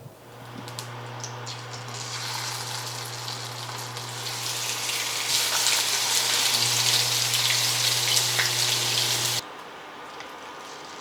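Water running from a tap, its hiss building as the flow opens up, over a steady low hum; both stop abruptly about nine seconds in as it is shut off.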